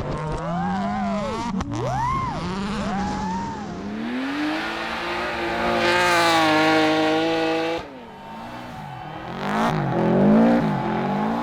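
Rally car engines revving hard, the pitch swinging quickly up and down, then held high at full throttle for a few seconds. About eight seconds in the sound cuts abruptly to another car, again revving up and down rapidly.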